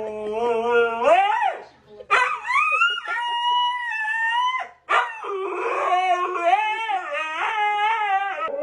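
A dog howling in long, drawn-out calls that glide up and down in pitch. It stops briefly about two seconds in and again near the five-second mark, then goes on in a wavering, yodel-like howl.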